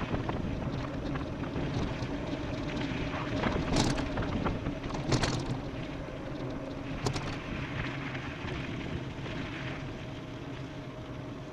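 Wind rushing over the microphone and tyre noise of an e-bike riding fast downhill, with a faint steady hum under it. Three sharp knocks come about 4, 5 and 7 seconds in.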